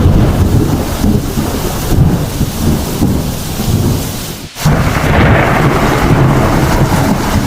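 Thunderstorm: heavy rain falling while thunder rumbles on and on. About two-thirds of the way in, the sound drops out for a moment; the rain hiss is louder after it.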